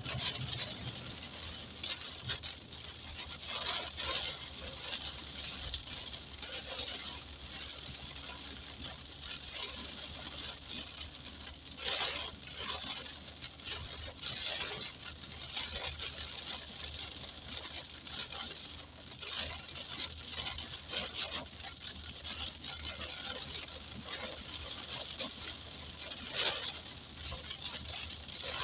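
Heavy rain pattering on the windshield and roof of a moving car, heard from inside the cabin, over the low hum of the car driving on a wet road. The rain noise swells louder every several seconds.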